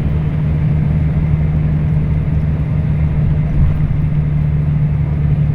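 Scania K340IB coach's diesel engine running at a steady pitch, heard from on board during the ride, with a constant low hum and road noise.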